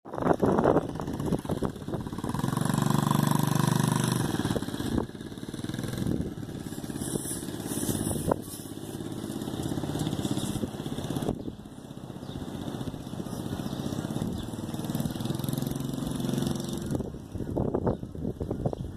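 Small dirt bike engine running as the bike is ridden, growing louder twice, around three seconds in and again near the end, as it comes close and moves off.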